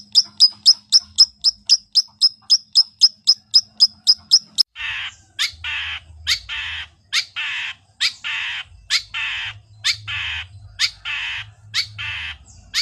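Long-tailed shrike (cendet) calling: a fast run of sharp, high notes at about five a second, then, about five seconds in, harsh rasping calls, each paired with a sharp note, about one a second.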